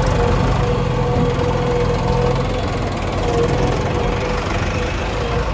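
Diesel engine of a working machine running steadily, a low rumble with a held whining tone over it.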